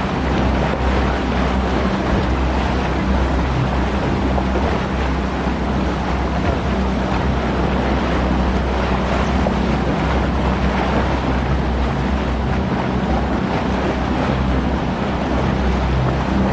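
Boat motor running steadily, with water rushing past and wind on the microphone.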